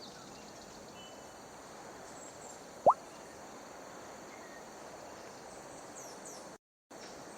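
Outdoor background hiss with a few faint, high bird chirps. About three seconds in comes a single loud water-drop plop, a short upward-sweeping bloop.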